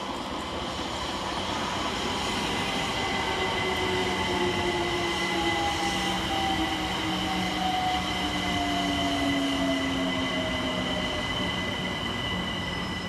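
London Overground Class 378 Electrostar electric multiple unit pulling in and braking, its traction motor whine falling slowly in pitch over a steady high whine and the rumble of its wheels on the track.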